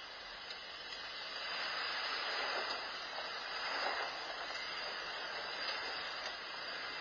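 Vehicle road and tyre noise from a dashcam recording: a steady hiss that swells a little in the middle, with no distinct impact.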